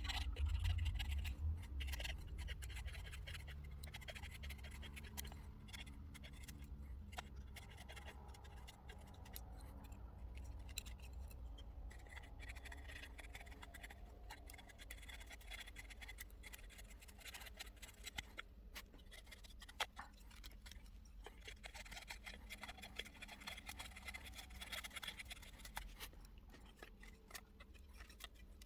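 Knife blade shaving thin curls down a wooden stick to make a feather stick: repeated short scraping strokes with small clicks. A low rumble is heard in the first couple of seconds.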